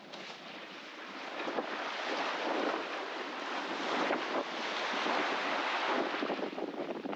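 Wind buffeting the microphone over the rush of waves and water along a sailboat's hull in a breaking following sea, swelling louder after about a second.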